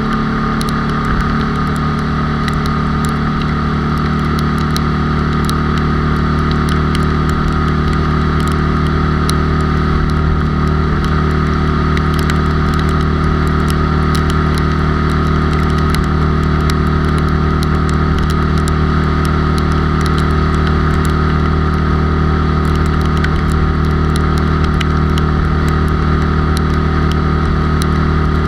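A bored-up 97 cc Honda Cub's single-cylinder four-stroke engine running at a steady cruise, heard from on board with wind and road noise.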